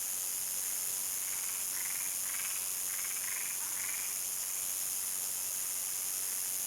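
Crickets in a dusk chorus, a steady high-pitched shrill. From about a second in to about four seconds in, an animal gives a run of about six short calls over it.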